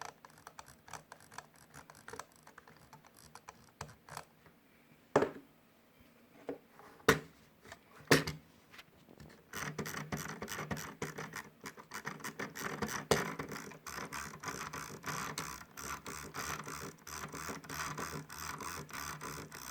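Logitech G502 mouse scroll wheel being turned, its notches ticking one by one at first, with a few louder clicks between about 5 and 8 seconds in. From about ten seconds in the wheel is turned fast, giving a quick, rasping run of clicks: the wheel noise the mouse is being checked for.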